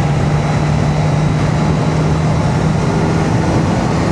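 Kawasaki Z900's inline-four engine cruising at a steady speed, its note held level, with wind and road noise rushing past the rider.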